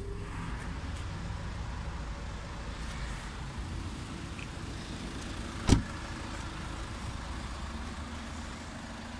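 Ford Focus ST's 2.0 TDCi four-cylinder turbodiesel idling steadily, with the car door shut once about six seconds in, a single loud thud.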